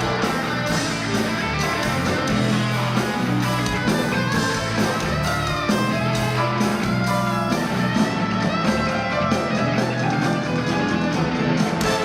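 Live band playing an instrumental passage with guitar prominent and no singing.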